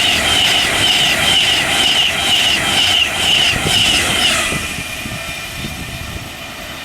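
Class 390 Pendolino electric train passing through at speed, with a repeating high-pitched chirp about three times a second over the running noise; the sound fades away about four and a half seconds in.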